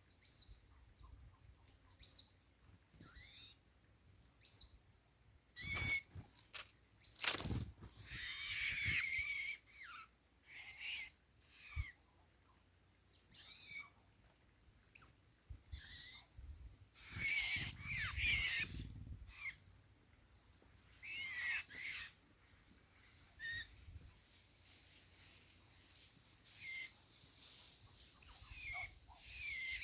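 Sayaca tanagers (sanhaço-cinzento) giving short, high, squeaky calls and twitters in scattered bursts, busiest in the middle and near the end.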